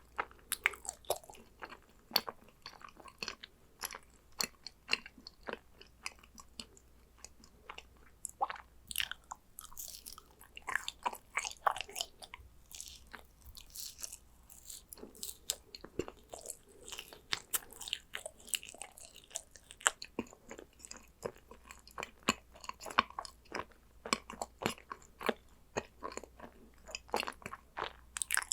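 Close-miked chewing of yakgwa, the Korean fried honey cookie: a steady stream of sticky, crunchy crackles and bites, several a second, with no pauses longer than a moment.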